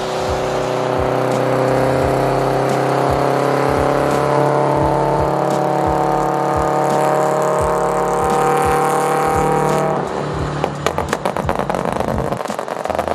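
Supercharged Toyota GT86's flat-four engine, breathing through cat-less unequal-length headers and a straight exhaust, pulls hard for about ten seconds, its pitch climbing steadily. Then the throttle closes, and a rapid run of crackles and pops from the exhaust follows.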